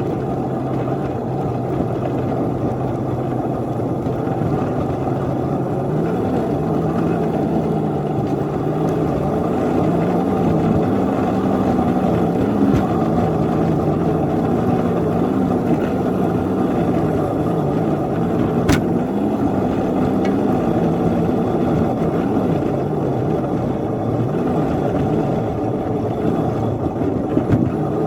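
Engine of a 7½-inch gauge riding-scale locomotive running under load as it pushes a snowplow train, its pitch rising about six seconds in and then wavering up and down while the wheels slip on the snowy rails. A single sharp click about two-thirds of the way through.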